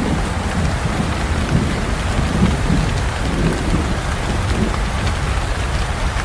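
Steady rain falling, with a low rumble of thunder rolling underneath.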